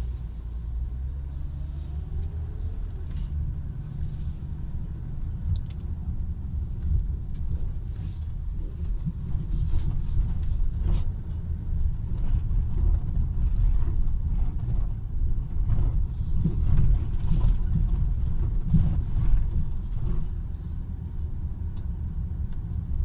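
Low road and engine rumble heard inside a moving car's cabin, getting louder through the middle and easing near the end.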